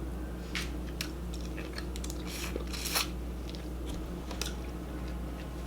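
Close-miked chewing and biting, with scattered sharp mouth clicks over a steady low hum; the loudest click comes about three seconds in.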